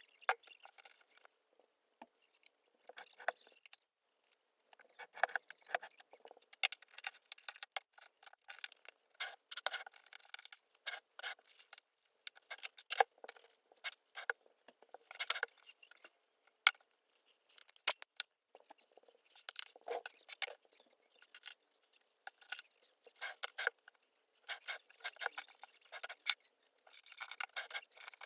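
Irregular small clicks, taps and clinks of objects being handled, some with a glassy ring.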